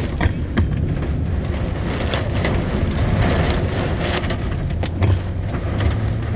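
Heavy rain pattering and drumming on a car, with scattered sharp drop hits, over the steady low hum of the car driving, heard from inside the cabin.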